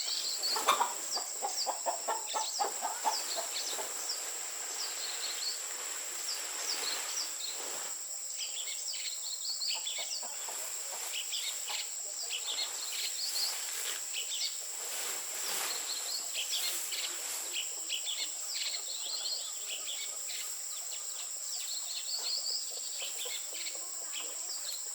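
Outdoor farmyard ambience: many small birds chirping and a steady high insect drone, with chickens clucking during the first few seconds.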